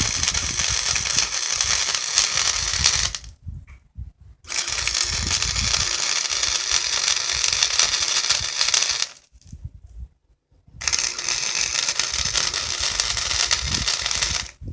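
Welding arc crackling steadily in three passes of several seconds each, with short pauses between them as the welder stops and restarts the bead. The welder is a voltage-set wire-feed (MIG) unit.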